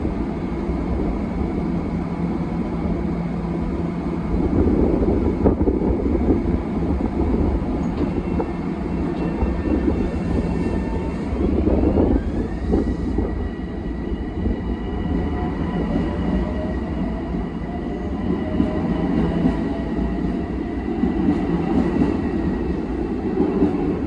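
Long Island Rail Road electric multiple-unit train pulling out of the station and accelerating past: a steady rumble of wheels on rail, with traction-motor tones that step up and keep rising in pitch as it gathers speed.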